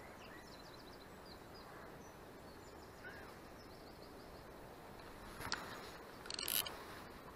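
Small birds chirping over quiet outdoor background noise, with a short sharp tick past the middle and a louder brief rattle near the end.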